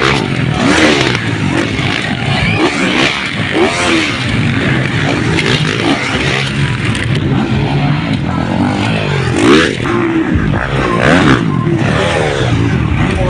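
Several motocross dirt bikes running at once, their engines revving up and dropping back over and over with overlapping rises and falls in pitch; one swells loudest about two-thirds of the way through.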